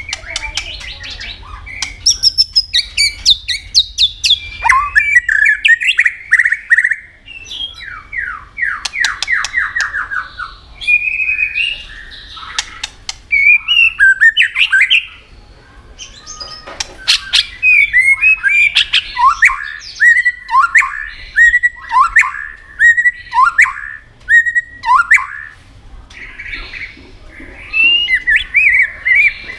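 White-rumped shama singing a long, varied song: whistled and chattering phrases broken by short pauses, with a quick run of repeated notes about eight seconds in and sharp clicks scattered through.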